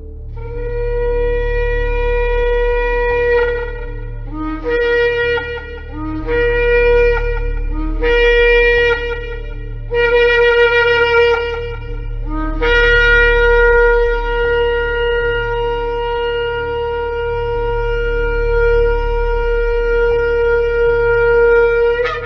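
Shofar blown: one long blast, then four short blasts that each break from a lower note up to the main one, then a very long held blast of about nine seconds that flips upward in pitch as it ends.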